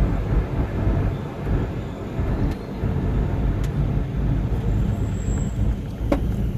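Vehicle driving along a road: a steady low rumble of engine and road noise, with a few light ticks.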